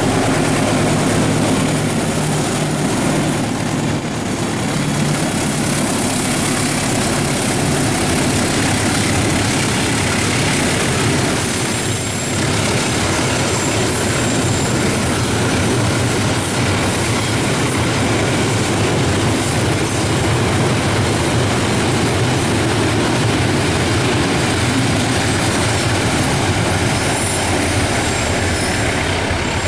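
A long train passing close by: the wheels roll over the rails in a steady, continuous rumble and clatter, with a low steady hum that fades over the first several seconds.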